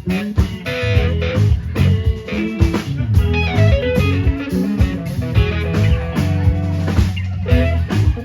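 Live band playing an instrumental passage: guitar melody over a drum kit, with no singing.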